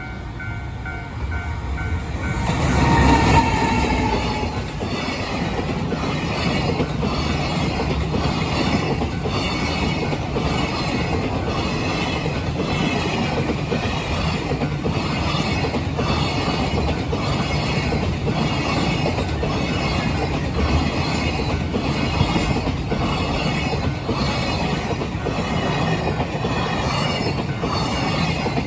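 A freight train passing close by. The locomotive arrives loudly about three seconds in, then a long string of freight wagons rolls past with a steady, regular clatter of wheels over rail joints.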